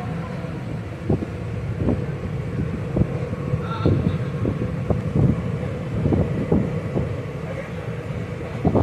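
Train running slowly, heard from inside the carriage: a steady low rumble with irregular sharp clacks as the wheels pass over rail joints.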